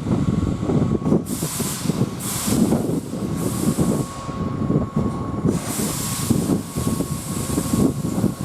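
Keihan Main Line electric train running along the platform: a steady rumble and rapid wheel-on-rail clatter, with several short bursts of high hiss and a faint steady tone.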